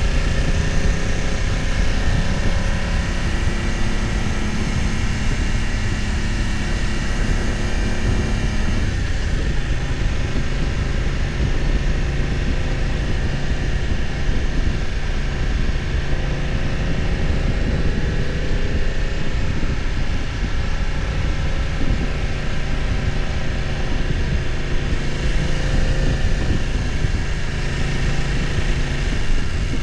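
BMW F900 XR's parallel-twin engine running under way, its pitch shifting with the throttle. The engine note eases back for a stretch in the middle and picks up again near the end.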